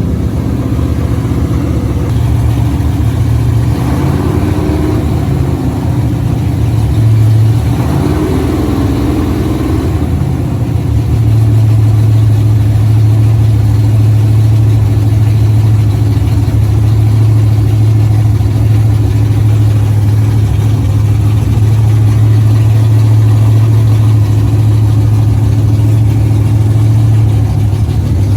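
1973 Dodge Challenger's 440 big-block V8, freshly rebuilt with new heads, running on its first start-up. It is revved up twice in the first ten seconds, then settles into a loud, steady fast running.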